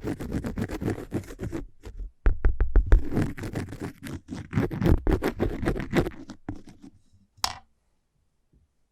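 Fingernails scratching rapidly on cork in two runs of quick strokes with a short break between them, then a single sharp click near the end.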